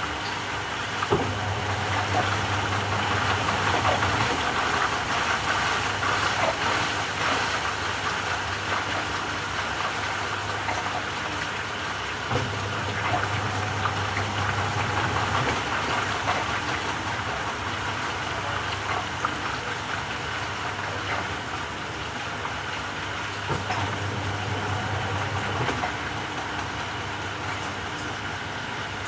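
Samsung 6.5 kg top-loader washing machine running through its quick cycle, a steady mechanical churning with scattered clicks. A low hum comes on three times, for about three seconds each: near the start, about twelve seconds in, and about twenty-three seconds in.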